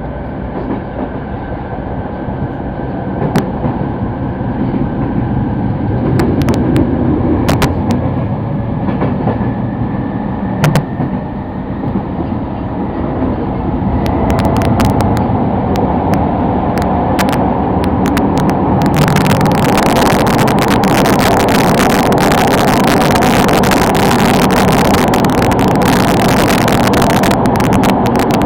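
Sotetsu Line commuter train running, heard from inside the car: a steady rumble with scattered sharp clicks. About two-thirds of the way through the noise grows louder and harsher and stays that way.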